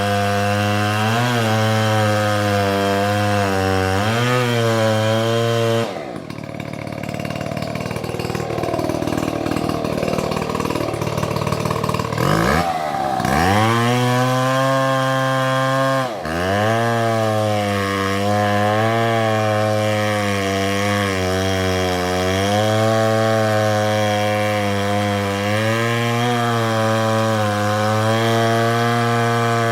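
MS720 two-stroke chainsaw running at high revs while cutting through a big tree, its pitch wavering as the bar meets load. About six seconds in, the steady engine note gives way to a rougher noise for several seconds. The revs then fall briefly and climb back up, once around the middle and again a few seconds later.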